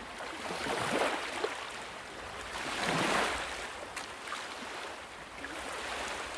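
Small waves washing in, a noisy surge that swells and fades, peaking about one second in and again about three seconds in.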